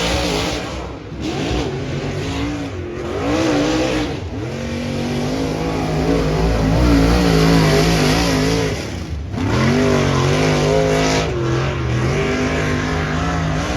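Dirt modified race car engine at racing speed, revving up and down as the throttle is lifted and reapplied, with the engine note dropping sharply a few times before climbing again.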